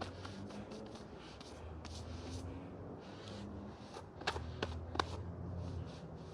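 Powerslide Imperial SUV off-road inline skates with 125 mm wheels rolling over a dirt trail: a low rumble that swells and fades, with a few sharp clicks about two-thirds of the way through.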